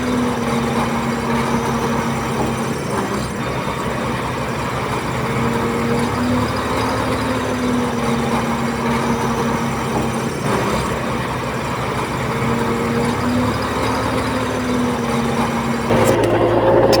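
Heavy diesel engine of earthmoving machinery running steadily under load, with a fast low pulsing and a wavering hum. About a second before the end it changes abruptly to a different engine tone.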